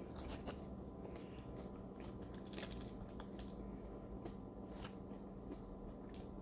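Faint chewing and mouth sounds of a person eating fast food, with a few soft clicks scattered through, over a steady low hum.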